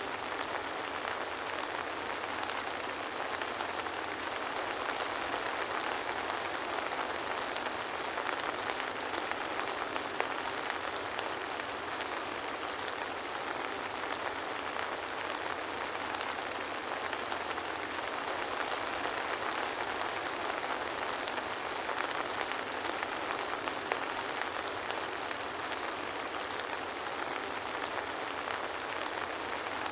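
Soft rain falling steadily, an even hiss of many small drops with no thunder.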